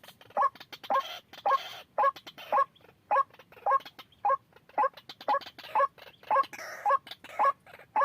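White-breasted waterhen calling: a steady run of short, upward-hooking notes, about two a second.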